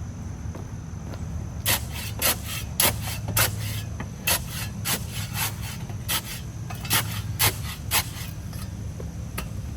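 Repeated scraping strokes, roughly two a second and unevenly spaced, of a shovel or tool working concrete mix and soil into a fence-post hole. They start about two seconds in and stop shortly before the end.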